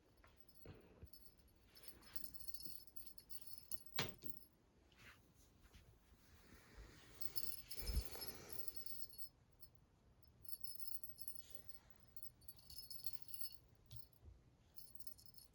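A small bell jingling in short spells, with two soft knocks, one about four seconds in and one about eight seconds in.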